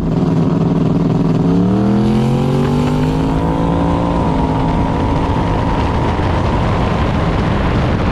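Turbocharged LS V8 of a drag car running at a steady pitch, then revving up over about two seconds and holding the higher pitch, under heavy wind and road noise.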